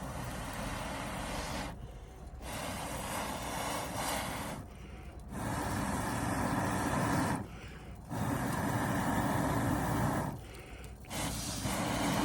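Air blown through a fire-blowing pipe into a campfire: five long hissing puffs of about two seconds each, with a short pause for breath between them.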